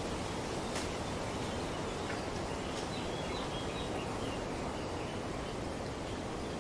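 Wind rustling steadily through tree foliage, with a few faint, high bird chirps around the middle.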